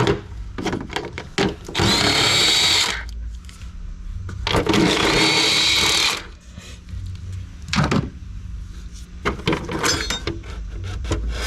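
Cordless power tool spinning out the nuts and bolts that hold an engine cover, in two runs of about a second each, with clicks and clanks of the tool and fasteners between.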